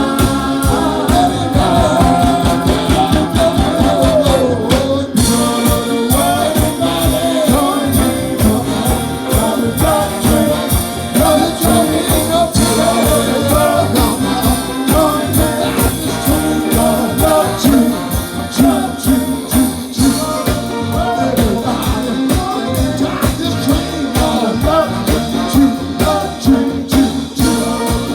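Live soul band playing over a steady beat, with singing and vocal harmonies carried over the music.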